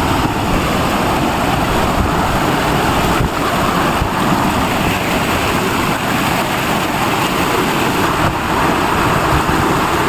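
Mountain stream and waterfall water rushing over rocks, a loud steady roar.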